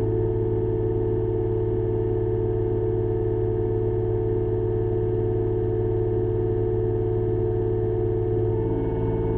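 Excavator's diesel engine running at steady revs with a constant humming tone, the pitch of the hum shifting slightly near the end.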